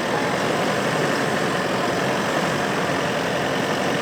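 Diesel 4x4 SUV engine running steadily at low speed as the vehicle crawls forward through soft ground.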